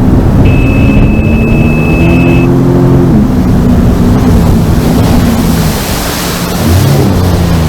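Sea-Doo Fish Pro jet ski engine running under way, with rushing wind and water. The engine note drops about three seconds in as the throttle comes off, then rises again near the end.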